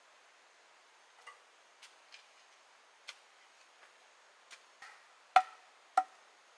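A series of irregular sharp taps and knocks, a few faint at first, then two loud knocks with a short ring about half a second apart near the end.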